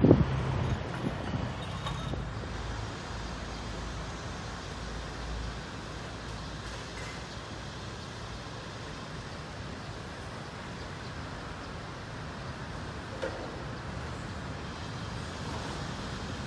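Steady rumble and hiss of a distant Seoul Metro electric train running along an elevated track, blended with the general hum of city traffic.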